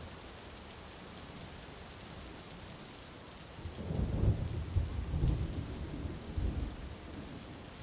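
Heavy rain falling steadily, with a roll of thunder rumbling in about four seconds in, loudest for a second or two, then fading.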